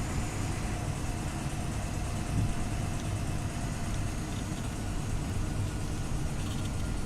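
Scania OmniLink CL94UB city bus running steadily, a low engine and road rumble with a faint steady whine over it.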